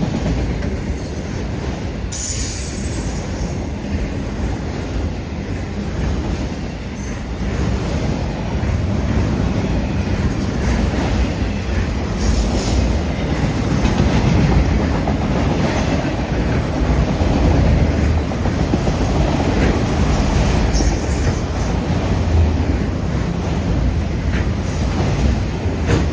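Long freight train's cars rolling past at speed: a steady heavy wheel rumble with clickety-clack over the rail joints, and brief high wheel squeals several times.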